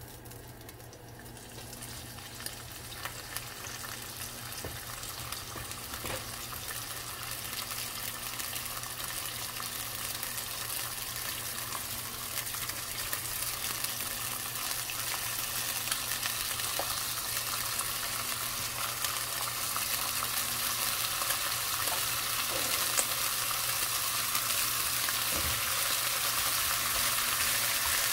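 Food sizzling in a hot frying pan, with scattered small crackles; the sizzle grows steadily louder as the pan heats up.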